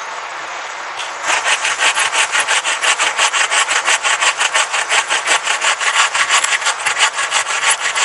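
Hand saw cutting wood in rapid, even back-and-forth strokes, starting about a second in, over a steady background hiss.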